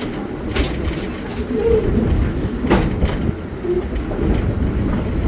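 Passenger train behind the 1897 Detroit and Lima Northern No. 7 steam locomotive, heard from aboard as it rolls along the track: a steady low rumble with a couple of sharp clacks from the wheels and rails.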